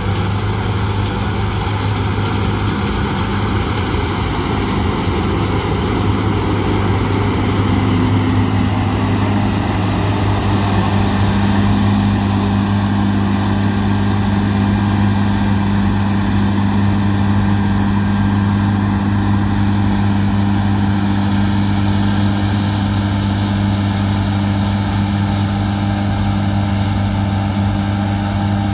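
Large John Deere farm diesel engine running steadily and loudly, its pitch shifting slightly about ten seconds in.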